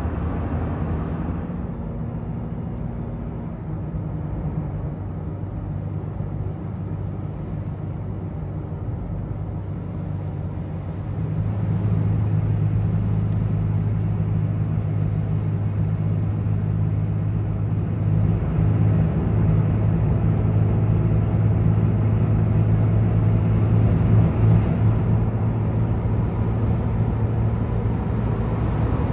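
Truck engine running steadily with a low hum, growing louder about eleven seconds in.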